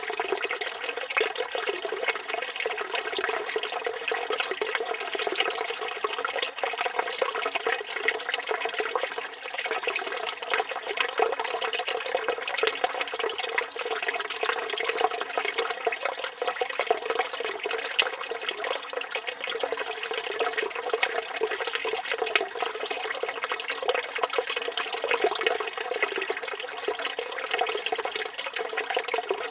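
Water from a village fountain running steadily and splashing, an even, unbroken rush with no pauses.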